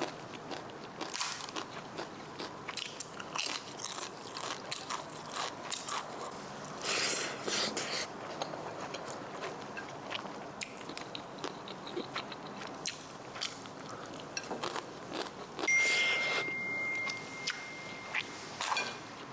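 Close, irregular crunching and chewing, like someone eating something crisp near the microphone. A steady high tone sounds for about two seconds near the end.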